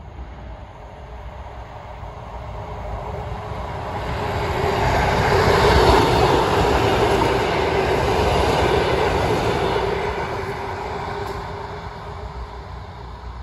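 Diesel railcar set passing close by: engine and wheels on the rails build up, are loudest about six seconds in, hold for a few seconds, then fade as it moves away.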